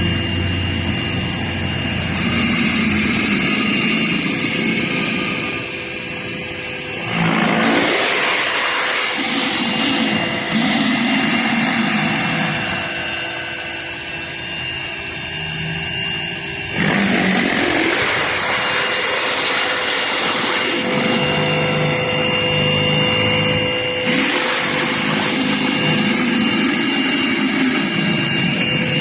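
Greenworks 1800 psi electric pressure washer running with an 11-inch spinning surface cleaner spraying on concrete: a steady motor and pump hum under the hiss of water jets. The sound eases off twice and comes straight back.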